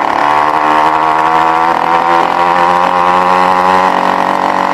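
Small two-stroke engine of a motorized bicycle kit running at a steady, even pitch.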